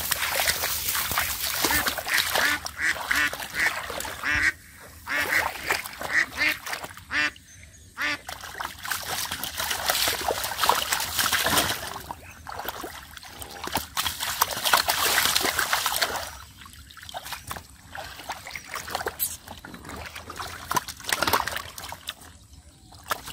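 Ducks quacking in a busy, repeated chorus, thickest in the first several seconds and thinning out later, with some splashing in water.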